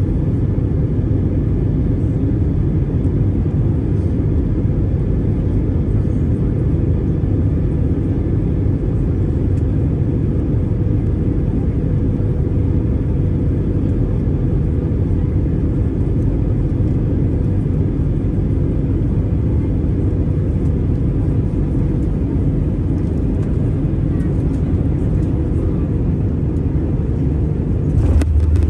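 Car driving at a steady speed: a constant low rumble of road and engine noise, with a faint steady hum.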